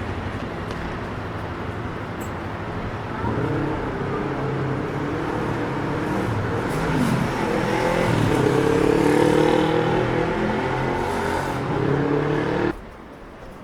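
Street traffic with a motor vehicle's engine running close by, growing louder and shifting in pitch from about three seconds in. The sound cuts off suddenly near the end.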